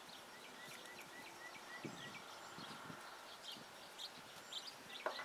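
Faint birds chirping: scattered short high chirps, with a quick even run of about five notes a second in the first two seconds. A few soft low knocks sound around the middle.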